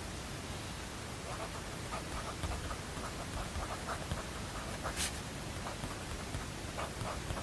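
Steady white-noise hiss with writing on paper over it: a run of short, irregular scratchy pen strokes starts about a second in, and there is a sharp tap about five seconds in.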